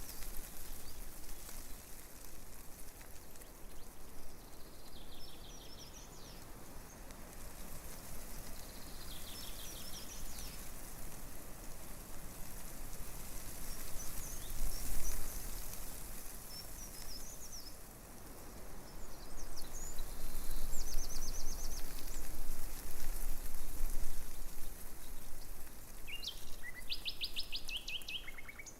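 Breeze rustling through tree leaves as a steady hiss that swells louder in gusts near the middle and in the second half. Birds chirp over it in short, quick, high trills every few seconds.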